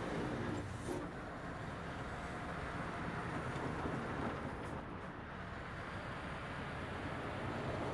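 Scania 770 hp V8 truck engine running steadily.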